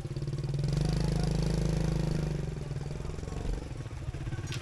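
Small motorbike engine running, its pulsing hum growing louder about a second in and easing off after about two seconds, as if passing close by.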